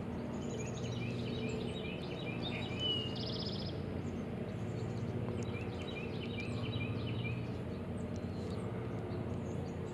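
Songbirds singing in repeated short phrases of chirps, with a brief buzzy trill about three seconds in, over a steady low drone.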